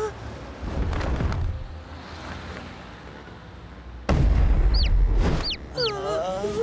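Cartoon sound effects: a loud low boom and rumble about four seconds in, with quick falling whistles, then a wavering pitched cry near the end.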